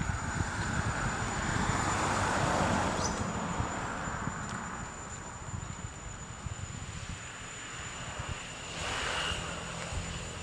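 Engine noise of a passing vehicle, swelling to a peak a couple of seconds in and then fading, over a steady high whine of insects.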